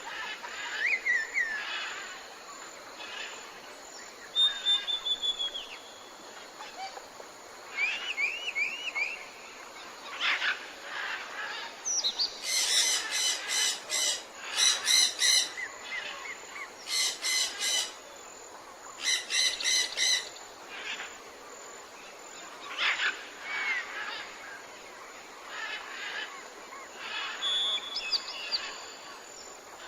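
Mixed birds calling in tropical forest: scattered whistled notes and short gliding calls over a steady background hiss. About halfway through, a bird gives four loud runs of rapid, harsh repeated notes.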